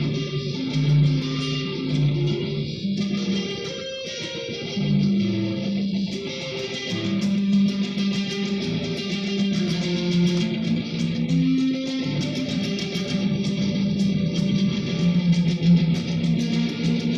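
Electric guitar played through an Amplifire amp-modeling effects processor, holding sustained, overlapping notes that change pitch every second or so.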